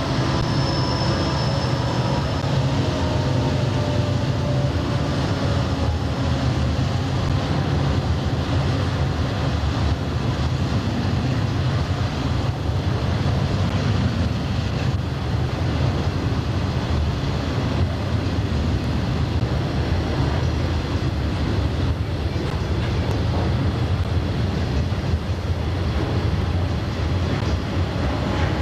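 Freight train of open hopper cars rolling steadily past, a continuous low rumble of wheels on rail.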